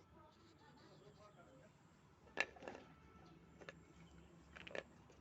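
Faint clicks and taps from handling paper and craft tools over near-silent room tone: one sharp click about halfway through, a couple of lighter ones after it, and a small cluster near the end.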